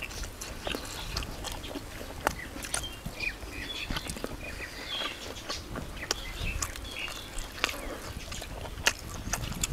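Short bird calls, among scattered sharp clicks and knocks that come at an uneven pace.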